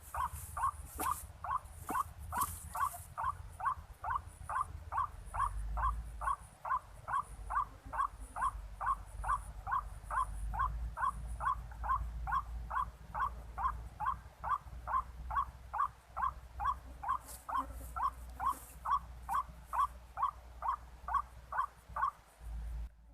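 White-breasted waterhen (ruak-ruak) calling: the same short harsh note repeated evenly, about two to three times a second, until it stops shortly before the end. A few clicks come at the start, and a low rumble runs underneath.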